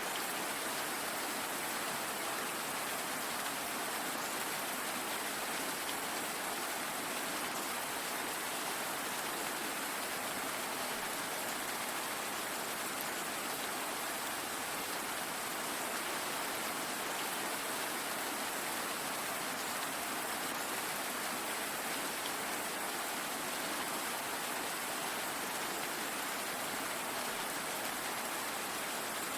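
Steady, even rain falling, a continuous hiss with no let-up or change.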